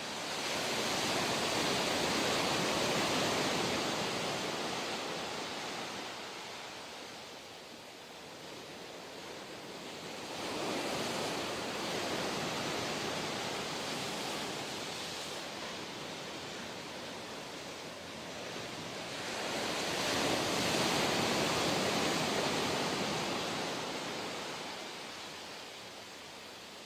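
Ocean surf: three waves break and wash out, about one every nine or ten seconds, each rising to a rush and then fading.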